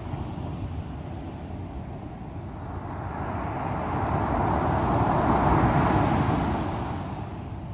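Sea waves on the shore: a steady wash of surf, with one wave swelling to its loudest about halfway through and then falling away.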